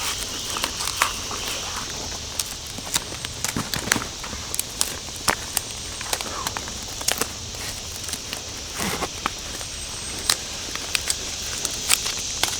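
Footsteps through forest leaf litter, with irregular crunches and snapping twigs, over a steady high hiss.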